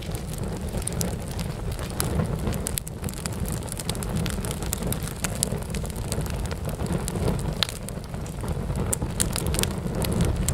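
Wood fire burning in a fireplace: many sharp, irregular snaps and pops of burning wood over a steady low rumble of the flames.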